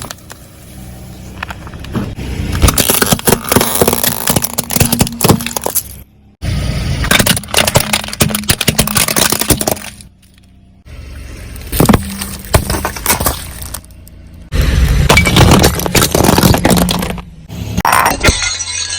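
A car's tyres rolling over crunchy objects and crushing them: dense crackling, cracking and clinking with the car's low hum beneath. The sound comes in several separate bursts, with brief silences between them.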